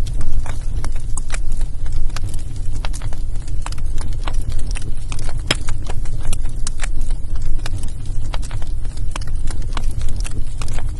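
Wood fire burning in a fireplace, crackling with many sharp pops over a steady low rumble, one louder pop about halfway through.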